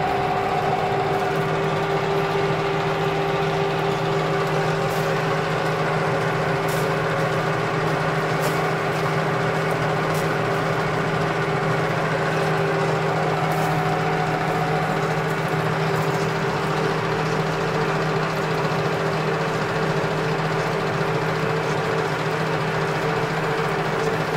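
Metal lathe running steadily, its motor and gearing giving a constant hum, with a few faint ticks now and then.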